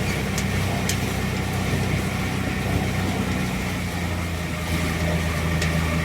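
Boat engine running at a steady pace, a constant low hum with a few faint clicks.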